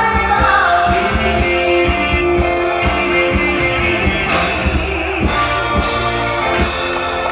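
Live band playing the closing bars of a song, held keyboard and guitar notes over steady drum beats, with some singing.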